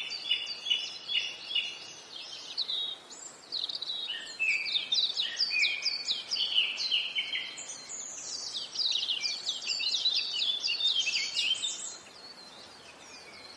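Birdsong: several small birds chirping in a dense chorus of quick, high, repeated notes that sweep down in pitch, stopping about twelve seconds in.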